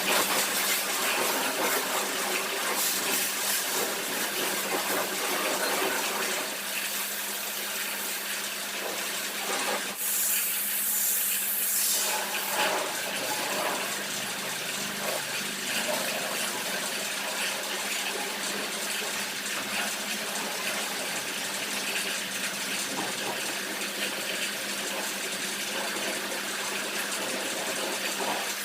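Car wash pressure washer spraying water: a steady hiss over a constant pump hum, with a louder, sharper burst of spray about ten seconds in.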